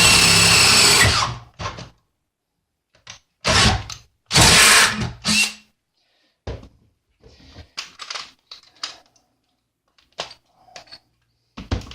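Power drill with a 1/2-inch twist bit boring through a metal electrical box cover, running hard for about a second before stopping, then two short bursts a few seconds in. After that, light knocks and clicks.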